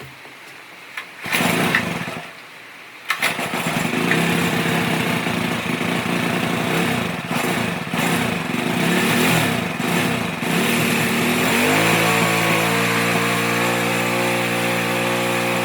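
Small go-kart engine starting: a brief burst of firing, then it catches about three seconds in and runs unevenly, its speed rising and falling, before settling near twelve seconds in to a steady idle that sounds a little high-pitched. The engine runs again after its fuel passage was blown out and sprayed clean.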